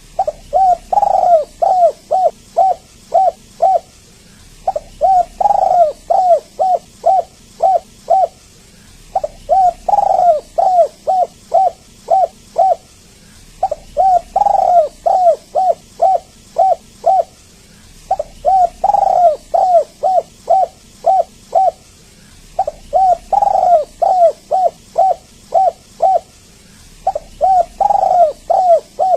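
Spotted dove cooing: phrases of short, evenly spaced coos, each opening with a longer, louder coo, repeating about every four and a half seconds.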